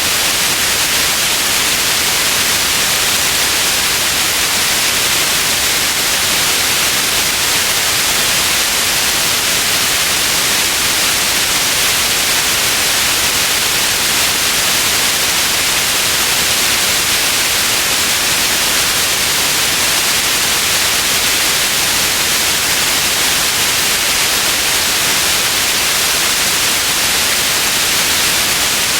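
Steady white noise: an even, unchanging hiss, brightest in the upper range, with no changes or events.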